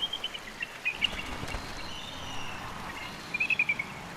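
Bald eagle calling: short runs of rapid, high chittering notes that drop slightly in pitch, the loudest run near the end, over a faint steady background hiss.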